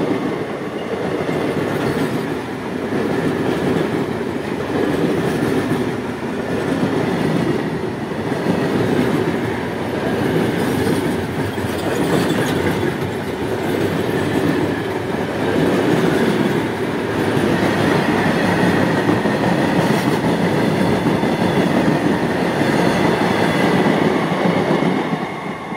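Railway coaches and goods wagons rolling past close by: a steady, loud rumble and clatter of steel wheels on the rails that keeps on unbroken.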